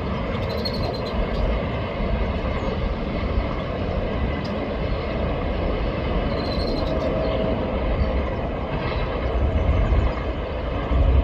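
Coal train cars rolling past on the rails in a steady rumble, with a few faint high wheel squeals.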